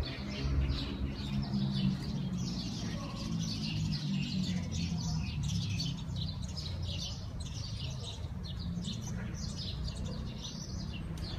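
Many small birds chirping, with short, high calls coming thick and fast, over a steady low rumble.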